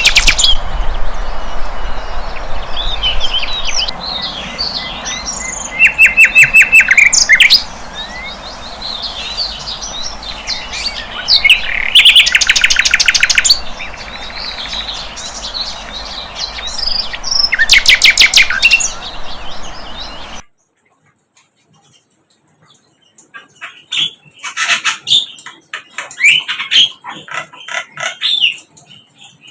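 Sikatan londo flycatcher song: high twittering broken by loud bursts of fast repeated notes, several seconds apart. Around two-thirds of the way through the sound cuts off suddenly and continues much quieter, with fainter chirps.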